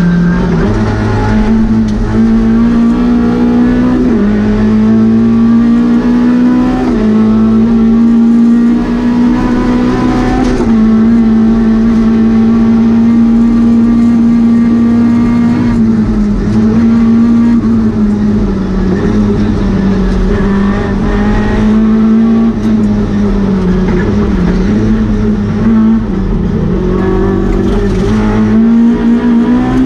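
Lada VFTS rally car's four-cylinder engine running hard at high revs, heard from inside the cabin. Its pitch holds steady for stretches and steps up and down several times as the car is driven flat out through the stage.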